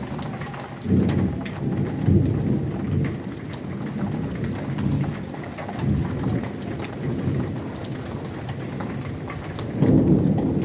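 Heavy rain pouring, with drops ticking on surfaces, under rolling thunder. The thunder rumble swells about a second in, again around two and six seconds, and is loudest near the end.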